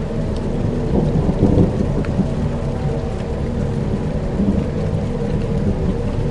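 Dark ambient soundscape: a low droning pad with held tones, and a rumble like thunder swelling about a second in, over a faint rain-like patter of small ticks.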